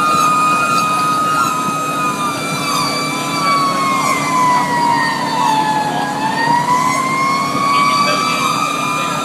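Federal Q2B mechanical siren on a fire engine, its steady wail sagging in pitch over about six seconds and then winding back up. Faster, repeating siren sweeps and the truck's engine run underneath.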